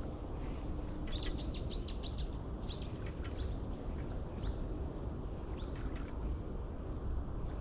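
A bird calling with a quick run of short, high chirps, each dropping in pitch, starting about a second in and followed by a few fainter ones, over a steady low rumble.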